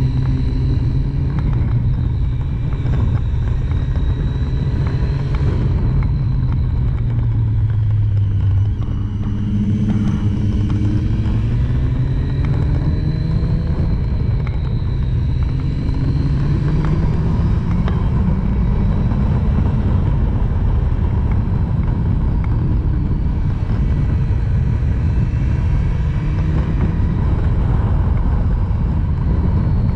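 Triumph Street Triple's three-cylinder engine under way, its pitch rising and falling as the throttle is opened and rolled off, over heavy wind rumble on the microphone.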